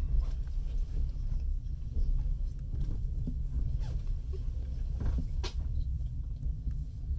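Steady low rumble inside a passenger train carriage, with scattered light clicks and knocks.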